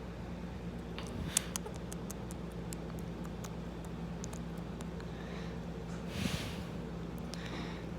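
A pet bird at a hand-held treat: scattered light clicks and ticks of beak and claws, over a steady low hum, with a brief rustle about six seconds in.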